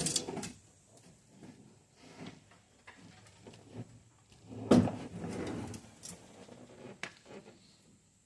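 Clunks, knocks and scraping of a Jeep Wrangler's loose front seat being shifted and lifted out, with two louder thuds, one right at the start and one about five seconds in.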